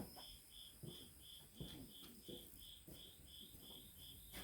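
A cricket chirping steadily at about three short chirps a second, faint, with a few soft knocks of tool handling underneath.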